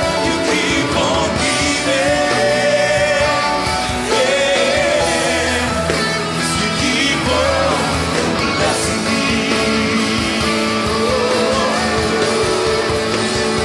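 Live worship music: a band with electric guitar, with singing voices over it.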